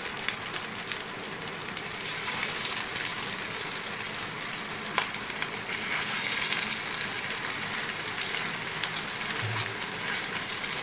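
Keema shami kebabs sizzling as they shallow-fry in hot oil, a steady hiss with a few small crackles of spitting oil.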